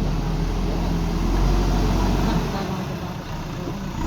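Diesel engine of a JCB 3DX backhoe loader running under load, a steady low drone that eases off about two and a half seconds in.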